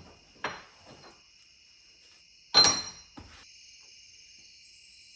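A few sharp metallic strikes, like a hammer hitting steel, each with a brief ring: one about half a second in, a louder one at two and a half seconds and a lighter one just after. Crickets chirr steadily underneath.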